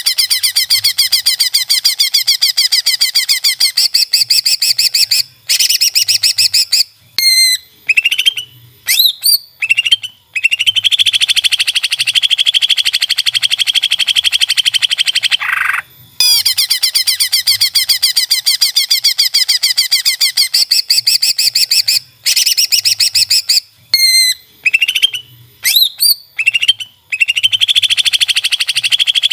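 Green leafbird (cucak ijo) song: long, fast, high trills of several seconds each, alternating with short whistled notes that slide up and down. The same run of phrases plays twice.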